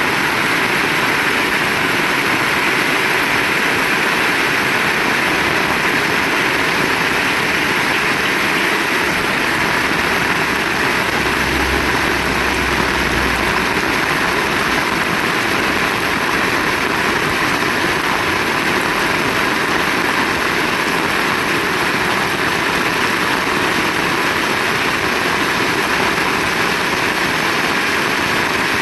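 Heavy rain falling steadily, a dense even hiss, with a brief low rumble a little before halfway.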